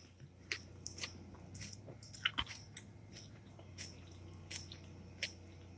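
Special K cereal being chewed, a string of faint, irregular crunches.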